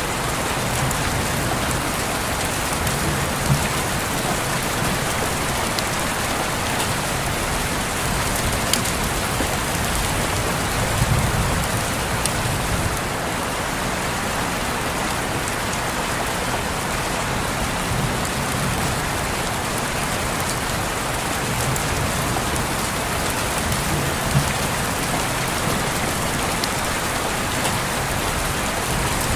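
Steady rain falling on a window pane, an even hiss of drops with an occasional sharper single drop tick.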